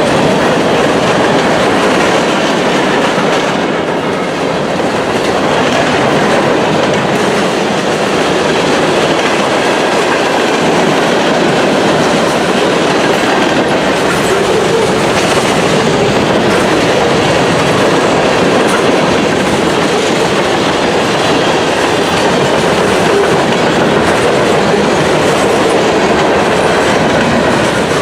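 A train's cars rolling steadily past, wheels clacking over the rails.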